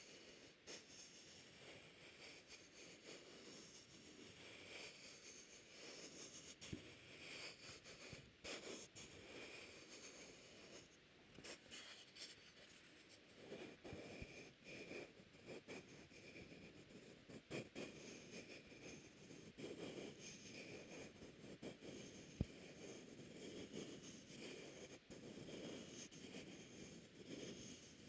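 Faint, close-up rubbing and scratching noises with scattered light clicks, a soft ASMR trigger.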